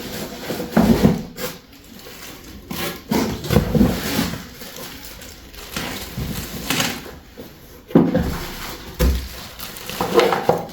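Irregular knocks, thumps and clatter of hard objects being handled and set down, in a small room.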